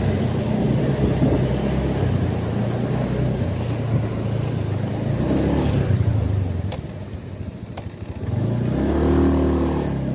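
A motor vehicle's engine running on the move over road and wind noise. It eases off about seven seconds in and picks up again shortly before the end.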